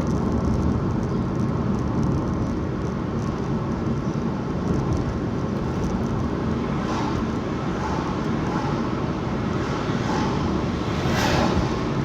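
Steady road and engine rumble inside a moving car's cabin. A brief louder rush comes near the end.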